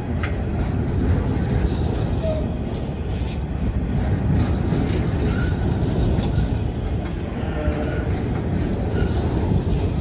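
Grain hopper wagons of a freight train rolling slowly past: a steady rumble of steel wheels on rail, with occasional clacks and a few brief faint squeals.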